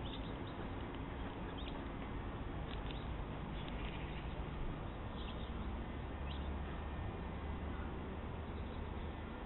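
Small songbirds giving short, high chirps at scattered moments, over a steady hiss.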